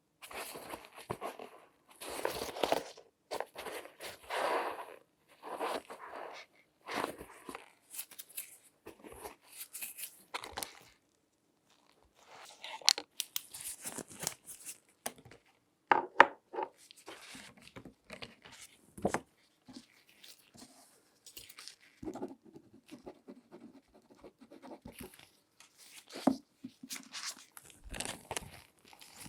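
Close-miked handling sounds from latex-gloved hands working over a shoe: irregular bursts of rustling and scraping, broken by a few sharp clicks.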